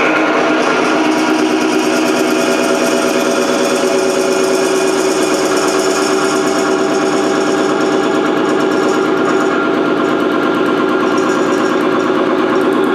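Falex lubricity testing machine running under load, its spinning wheel rubbing against the test bearing lubricated with refrigerant oil and the added supplement: a loud, steady mechanical whine with a fast rattling buzz, starting just before and cutting off just after.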